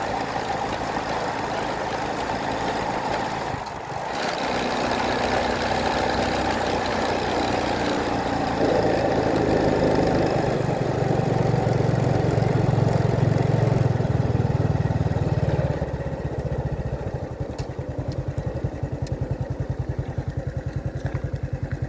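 A motor vehicle engine running under a broad rushing noise. About two-thirds of the way in, the rush falls away and the engine goes on alone with a steady, even pulse.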